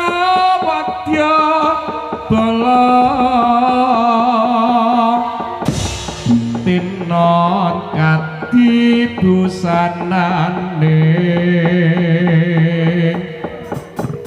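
Javanese jaranan music: a wavering, high melodic lead over drumming and a low held tone, with a brief swell of noise about six seconds in.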